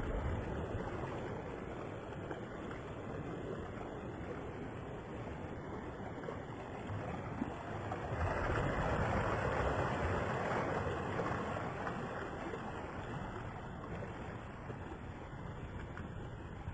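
Rough sea: steady rushing of waves around a ship under way, swelling louder about eight seconds in and then easing off.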